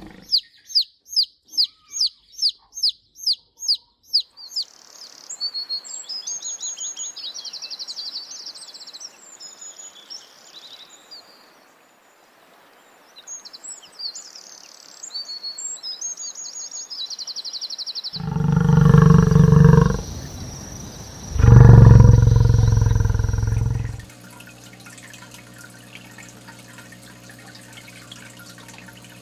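Birds chirping: a quick run of about ten high chirps, then a stretch of varied high bird calls. Near the end come two loud, low animal calls of about two seconds each, the loudest sounds here.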